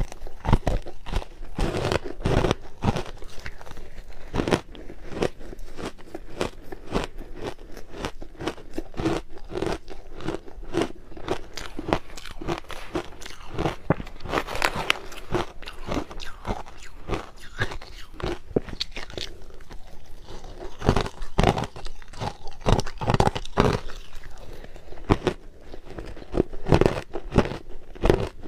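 Crushed ice being bitten and chewed close to the microphone: a fast, irregular run of crisp crunches that goes on throughout.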